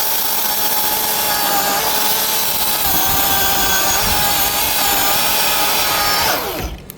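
Milwaukee battery-powered chainsaw running steadily with a high electric-motor whine while sawing through wood; near the end the trigger is released and the motor winds down, its pitch falling away.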